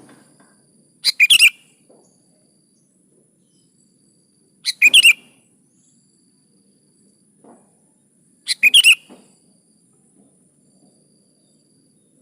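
Sooty-headed bulbul (kutilang) singing: three short, quick warbled phrases, each about half a second, spaced roughly three and a half seconds apart.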